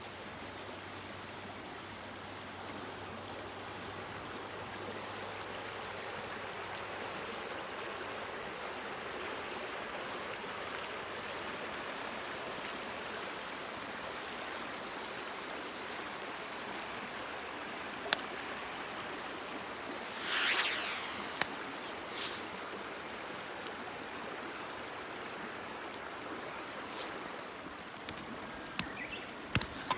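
Steady rush of flowing water, with a single sharp click about eighteen seconds in, two brief louder swishes shortly after, and a few clicks near the end.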